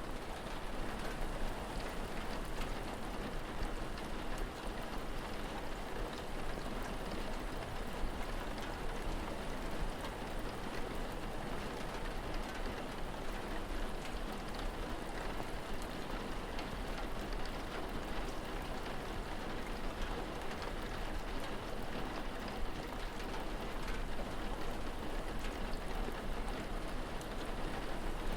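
Steady rain falling, an even hiss with many small scattered drop ticks, over a low steady rumble.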